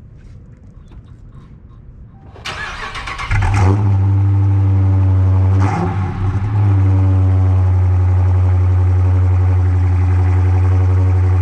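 Cold start of a Dodge Challenger R/T's 5.7 HEMI V8 with its resonators deleted and the mid muffler still fitted. After about two seconds the starter cranks briefly, then the engine catches and settles into a loud, deep, steady idle.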